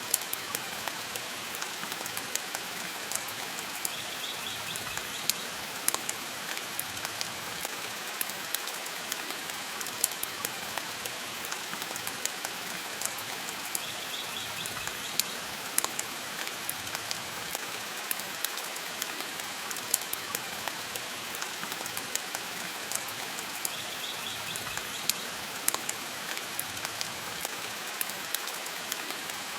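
Steady rain with a wood fire crackling, giving frequent sharp pops over the even hiss of the rain.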